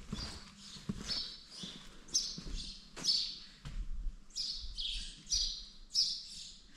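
Small birds chirping: a steady string of short, high chirps, each dropping in pitch, about two a second.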